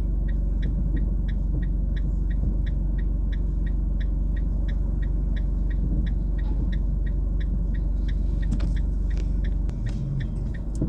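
Car driving, heard from inside the cabin: a steady low rumble of engine and tyres, with a regular light ticking about three times a second throughout.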